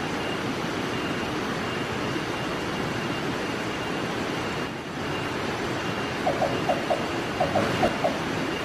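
Black-banded barbet calling: quick runs of three or four short, low hollow notes, repeated in clusters, starting about six seconds in over a steady hissing background.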